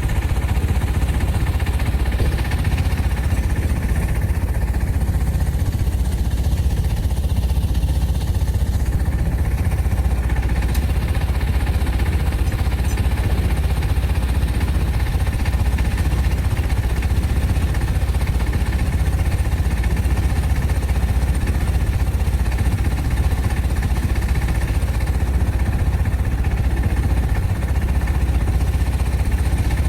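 A motor running steadily, a constant low drone with no change in speed.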